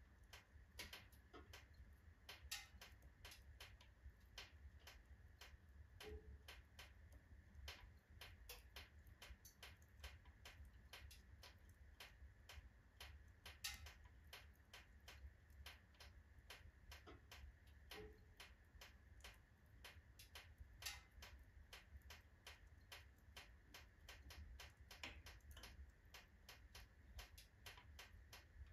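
Faint, irregular crackling of a wood fire of oak and alder logs in a stove: small ticks and snaps several times a second, with a few louder pops about two and a half seconds in, near the middle and about three quarters of the way through.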